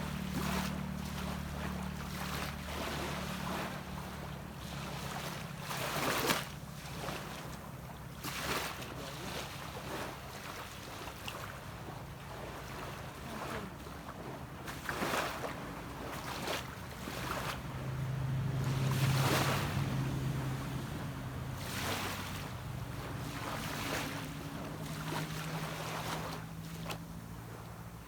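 Small waves washing onto a beach every couple of seconds, with the steady hum of a boat's engine underneath. The engine hum grows louder for a few seconds about two-thirds of the way through.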